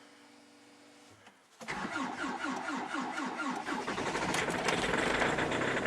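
Hyundai Santa Fe 2.0 CRDi diesel: a faint steady hum of the in-tank fuel pump running, then about one and a half seconds in the starter cranks the engine in a quick rhythm and the diesel catches and runs within a couple of seconds. The cranking is weak, the battery being low.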